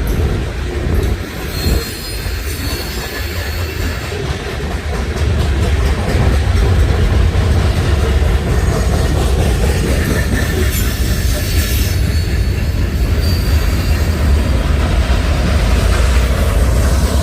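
A long freight train rolling past, with a steady heavy rumble of wheels on rail. It grows louder about six seconds in, and brief high-pitched wheel squeals come and go.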